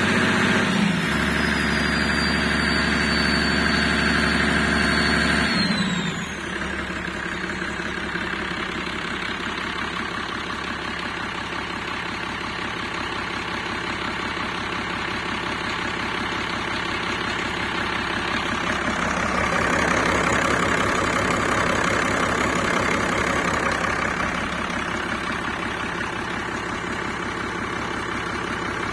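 Perkins Sabre M225Ti turbocharged six-cylinder marine diesel running at raised revs, then throttled back about six seconds in, a high whine sliding down as it settles to a lower, steady idle. The revs lift a little again for a few seconds past the middle.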